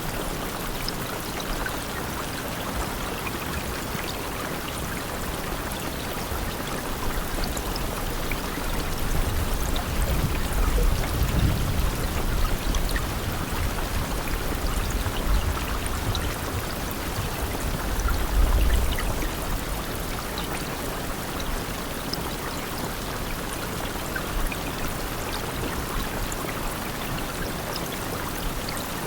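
Steady rain: a dense, even hiss with scattered drop ticks. A low rumble swells up in the middle and fades again.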